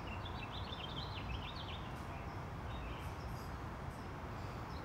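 Small songbirds chirping: a quick run of short high chirps in the first second and a half, then only a few, over a steady low outdoor background hum.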